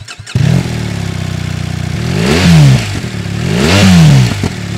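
BMW R1300GS's 1300cc boxer twin through its stock exhaust, starting up about half a second in and settling to idle. It is then revved twice in neutral, each blip rising and falling.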